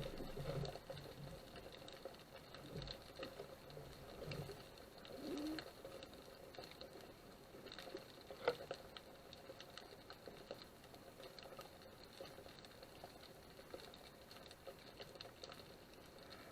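Faint underwater ambience heard through a camera housing: a steady crackle of small clicks and ticks, with one sharper click about eight seconds in.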